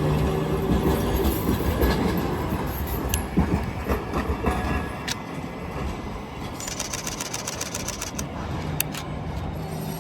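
Toyama Chiho Railway 7000-series streetcar, a tram with nose-suspended traction motors, running along its tracks. There is a steady low hum that eases off about halfway through, with scattered sharp clicks from the wheels on the rails.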